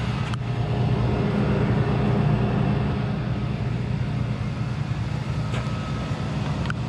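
Tow truck engine running with a steady low drone that grows a little louder about two seconds in.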